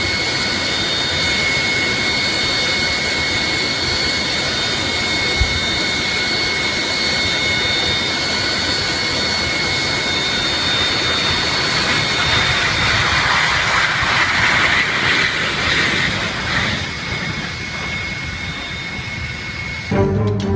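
Jet aircraft engine running with a steady roar and high whining tones. It swells louder past the middle and eases off near the end.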